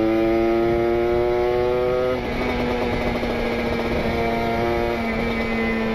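Kawasaki Ninja RR 150 cc two-stroke engine with a rich carburettor setting and an aftermarket R9 exhaust, pulling under throttle. Its pitch climbs for about two seconds, drops suddenly, then carries on steadily.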